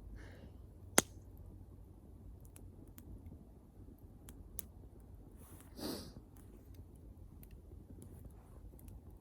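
Wood bonfire crackling, with scattered small ticks, one loud sharp pop about a second in, and a brief hiss around six seconds in.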